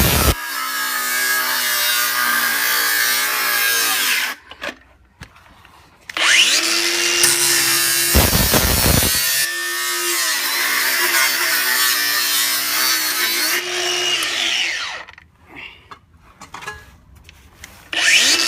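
Power tool sawing through a Worcester Bosch boiler heat exchanger in two long cuts, about four seconds and then about eight, its motor pitch dipping and recovering under load. A few short bursts follow near the end.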